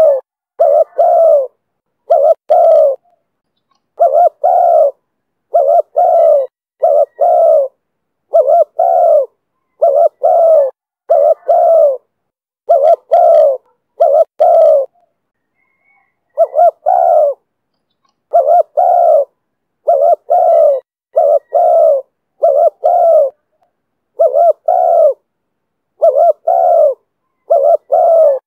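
Spotted dove cooing loud and close in the 'thổ thúc bổi' call style: short phrases of two or three notes repeated about every second and a half, with one brief pause about halfway.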